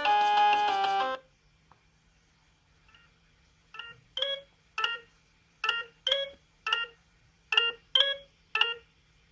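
Sagem my411X mobile phone's speaker playing a polyphonic ringtone melody that cuts off about a second in. After a short pause comes another simple ringtone of short, clipped beeping notes in three groups of three.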